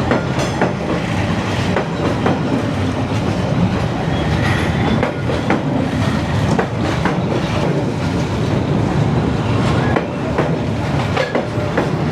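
A slow-moving train passing at very close range, its cars rolling by with continuous rumble and irregular clacking of wheels over the rail joints.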